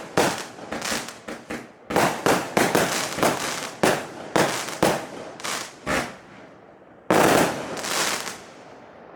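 A 200-shot, 20 mm consumer firework cake firing: a rapid string of sharp bangs, two or three a second, for about six seconds. After a short pause, a louder, denser burst lasts about a second, and then the sound dies away.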